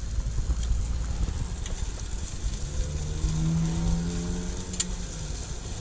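A car's engine close by: a low rumble, with an engine hum that comes in about halfway through and fades near the end, as a vehicle moves past.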